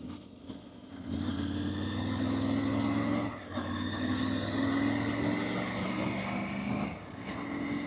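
Motorcycle engine pulling under load as the bike accelerates, with a brief drop about a third of the way in like a gear change. It eases off near the end, over steady road and wind noise.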